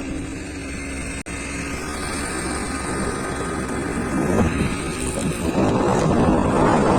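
Motor scooter riding along, its engine running under road and wind noise, with a momentary dropout in the sound just over a second in. The wind rush grows louder about five and a half seconds in.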